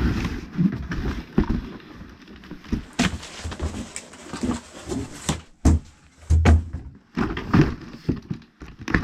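Cardboard box and packaging being handled as an RC truck is pulled out: scraping and rustling with several sharp knocks and low thuds.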